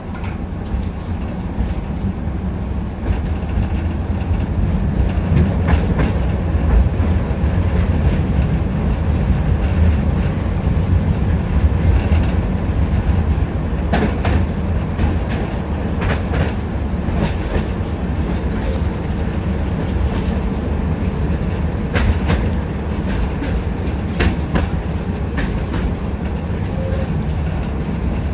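Tram running along the line, heard from inside the car: a steady low rumble with the wheels clicking and knocking irregularly over rail joints.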